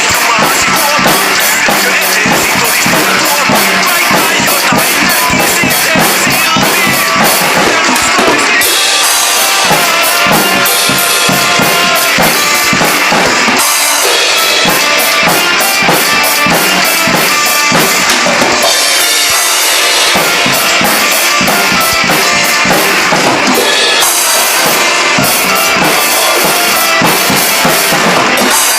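A drum kit played along with a band's recorded song: steady beats of kick drum and cymbals over the full mix, which changes section a few times.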